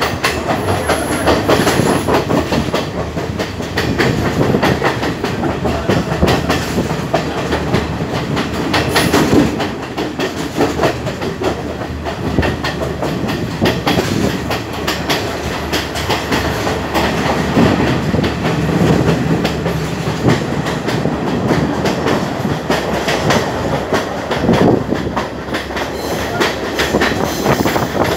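Sri Lanka Railways class S12 train running at speed, heard from an open carriage window: a steady rumble with the wheels clattering over the rail joints.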